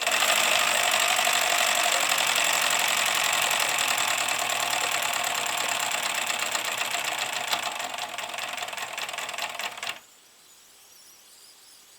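MSS kit-built side tank live-steam locomotive running, a loud, rapid stream of exhaust beats and mechanism clatter that gets slightly quieter over its last few seconds and cuts off suddenly about ten seconds in.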